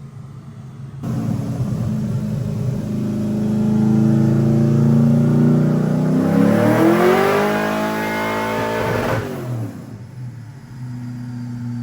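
LS3 V8 with a stage 3 drift cam making a wide-open-throttle dyno pull. The engine note climbs slowly, then rises steeply toward the top of the rev range, cuts off sharply about nine seconds in, and falls back to a lower steady running note.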